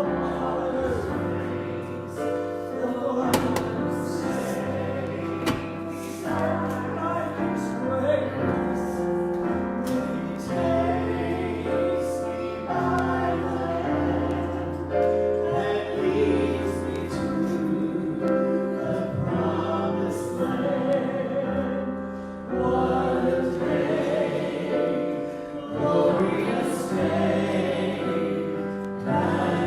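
Gospel-style worship singing over sustained keyboard chords, the voice holding long notes.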